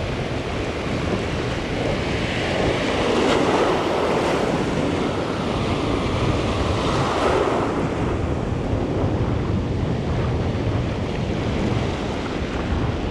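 Sea surf washing onto the shore, swelling twice a few seconds apart, under strong gusting wind buffeting the microphone.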